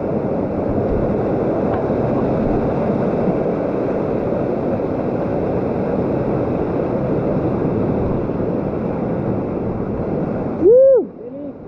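Waterfall water rushing steadily. It cuts off abruptly near the end, and a short, loud voice call that rises and falls in pitch follows.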